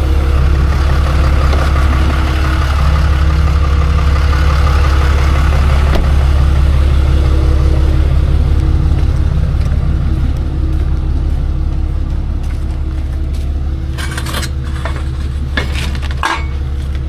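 A vehicle engine idling steadily with a deep, even hum. A few light knocks and clanks come near the end.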